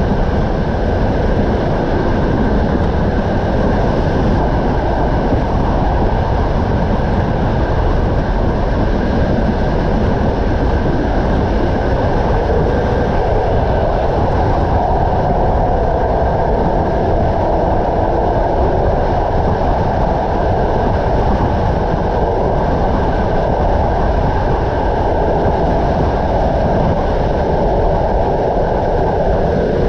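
Passenger train running at speed, heard from inside a carriage: a steady, loud rumble of the wheels on the rails.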